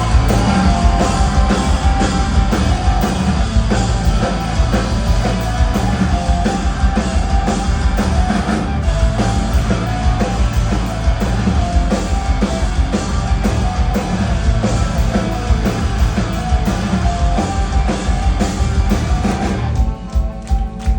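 Post-hardcore rock band playing live and loud: distorted electric guitars, bass and a pounding drum kit. About a second before the end the dense wall of sound drops away to a sparser part with evenly spaced beats.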